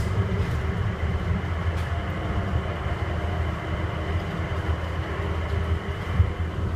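Airport inter-terminal people-mover train running through a tunnel, heard from inside the cabin: a steady low rumble with a faint high steady tone over it.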